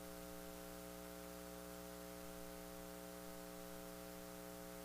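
Steady electrical mains hum with a faint hiss, a stack of steady buzzing tones from the recording or sound system.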